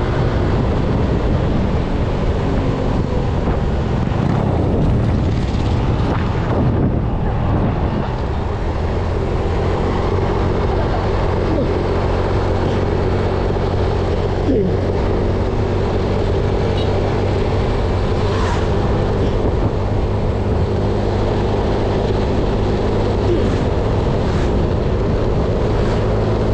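Engine running with a steady drone and a constant level, mixed with a rushing noise.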